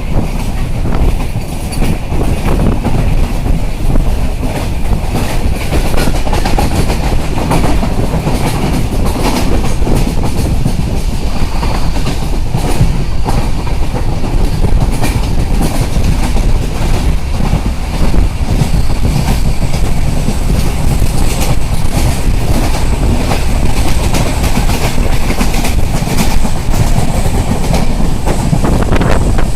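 Passenger train running along the track: a loud, steady rumble with the clickety-clack of wheels passing over rail joints.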